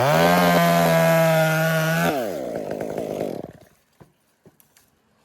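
Chainsaw revved to full throttle and held for about two seconds while cutting through a limb. The throttle is then released, and the saw idles lower until it cuts out about three and a half seconds in.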